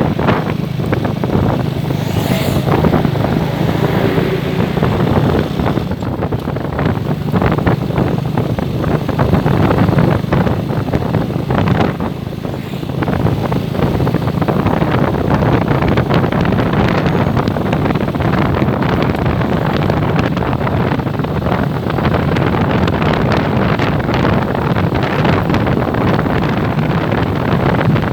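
Honda CBR150's single-cylinder four-stroke engine running steadily at riding speed, with heavy wind noise on the microphone. The loudness eases briefly about twelve seconds in, then picks up again.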